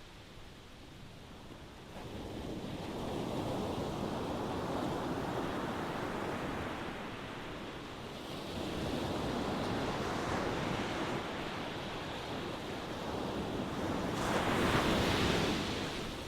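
Ocean waves breaking and washing in successive surges. It is quiet at first, a wave builds about two seconds in, another comes around the middle, and the loudest, brightest one breaks near the end.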